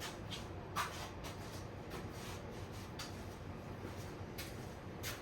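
A few faint, irregularly spaced clicks and taps over a low steady hum. The most noticeable comes just under a second in.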